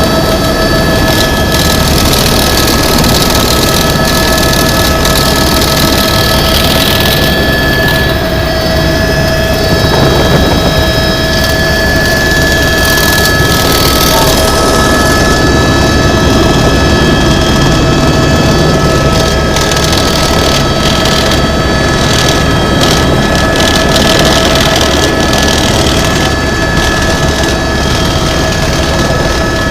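Tour helicopter's turbine engine and rotor running, a loud steady noise with a constant high whine over it.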